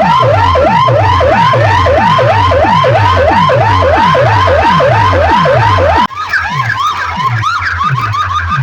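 A DJ sound system plays loud remix music built on a siren-like effect: rising sweeps repeat about three times a second, each with a falling bass hit. About six seconds in, the sound cuts abruptly to a thinner, quieter version of the pattern.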